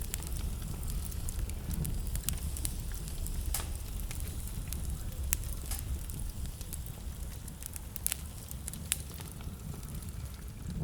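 Wood fire crackling in a fireplace: irregular sharp pops and snaps over a steady low rumble of blizzard wind.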